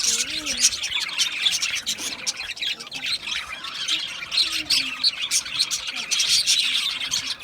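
A flock of budgerigars chattering, many short high chirps and squawks overlapping without a break.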